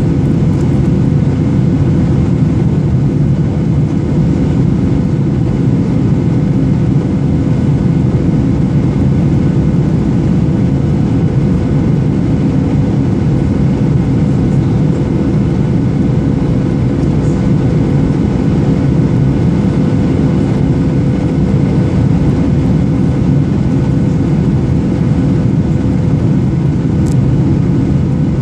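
Steady, unchanging drone of a Boeing 737-800's CFM56-7B engines and airflow as heard in the cabin, with a constant hum running through it.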